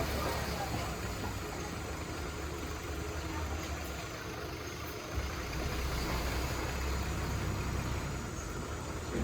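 Heavy machinery's diesel engine running steadily at low revs, a low rumble that dips briefly about halfway through and then carries on.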